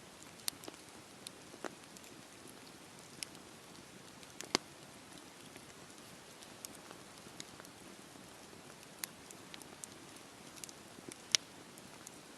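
Campfire burning: a steady low rush of flame broken by irregular sharp crackles and pops of burning wood. Two pops are louder than the rest, one about four and a half seconds in and one near the end.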